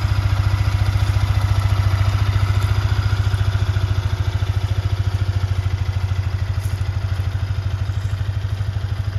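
2023 Yamaha XSR125's 125 cc single-cylinder engine idling steadily, with an even, rapid pulsing exhaust beat.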